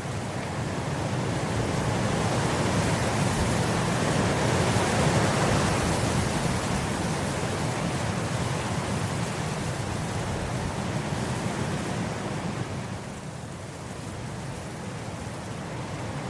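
Wind blowing across grass, a steady rushing noise that builds in a gust over the first few seconds and eases off near the end.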